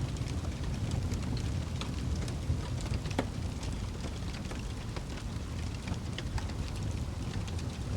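Wood fire burning in a fireplace: a steady low rumble of the flames with irregular sharp crackles and pops from the burning wood, a few louder pops about three seconds in.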